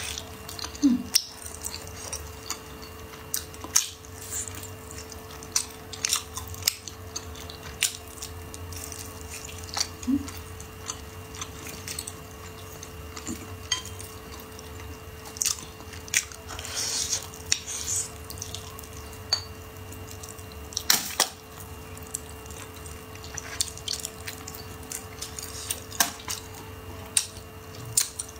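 Close-up mouth sounds of chewing braised pig's trotter: irregular wet clicks and smacks as the chewy, gelatinous skin is worked, with an occasional tap of chopsticks on a ceramic plate. A faint steady hum runs underneath.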